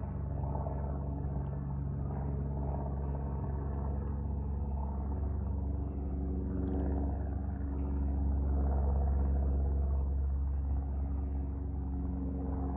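Aircraft engines passing with a continuous low rumble and a steady multi-tone drone, swelling to their loudest about two-thirds of the way through.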